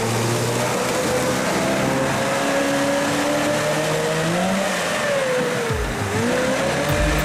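Off-road 4x4's engine revving, its pitch rising and falling several times, with a deep dip about six seconds in.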